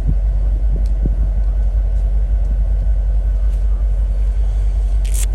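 Steady low rumble of wind buffeting the microphone, with a few light knocks as wooden hive frames are set gently back into a hive box, and a short hiss near the end.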